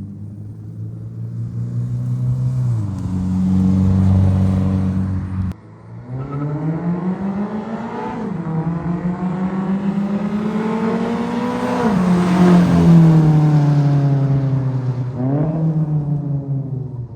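Toyota GR86's 2.4-litre flat-four boxer engine through a Tomei Expreme Ti Type 80 titanium cat-back exhaust. It runs steadily and then drops in revs. After a cut, the car accelerates with the revs climbing and falling back at upshifts, tyre and exhaust noise peaking as it drives past a little after halfway.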